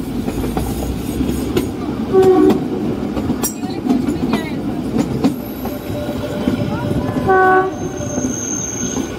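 Narrow-gauge Kalka–Shimla toy train running along the track, heard from on board: a steady rumble and clatter of wheels on rail. The diesel locomotive sounds two short horn blasts, one about two seconds in and a louder one about seven seconds in, and a thin high wheel squeal comes in near the end as the train rounds a curve.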